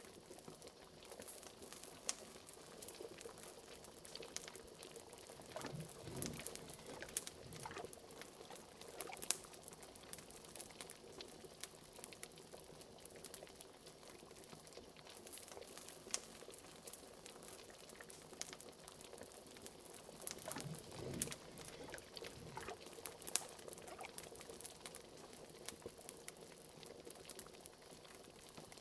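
Faint liquid bubbling at a steady boil, the bubbling-cauldron sound, with a few louder gurgles about six seconds in and again about twenty seconds in. Frequent small clicks and pops of a crackling fire run through it.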